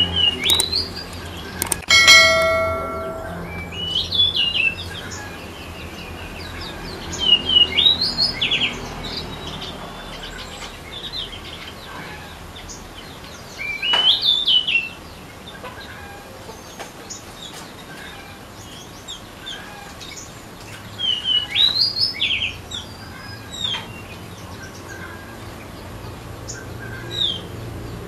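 Birds calling outdoors in short chirping phrases, about half a dozen bursts several seconds apart. About two seconds in, a brief bell-like ding rings out.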